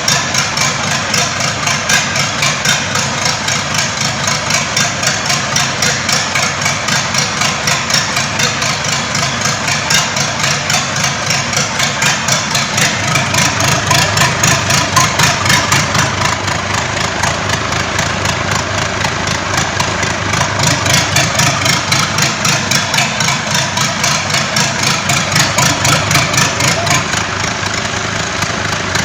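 Freshly rebuilt engine idling steadily during break-in, with an even, rapid pulsing.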